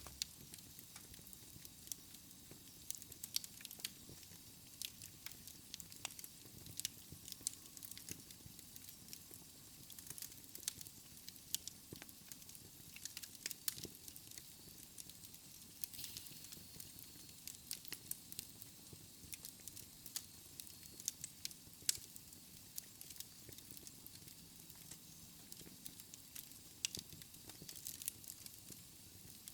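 Wood fire crackling in a fireplace: irregular sharp pops and snaps, some louder than others, over a faint steady hiss.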